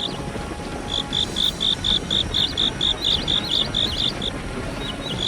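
A cricket chirping in a steady rhythm of short, high-pitched pulses, about four a second, with a brief pause near the end.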